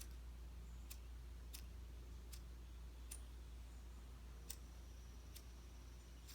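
Cheap lighter being struck over and over, a faint sharp click about once a second, with the flame not catching.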